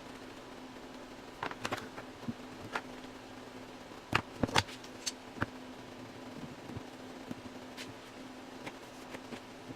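Light knocks and clicks of wooden parts and clamps being handled during a glue-up, loudest in a quick cluster about four and a half seconds in, over a steady low hum.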